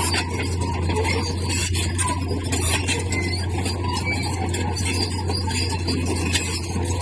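Komatsu bulldozer at work: the engine runs with a steady low hum under continuous metallic scraping and clatter from the tracks and blade pushing stone.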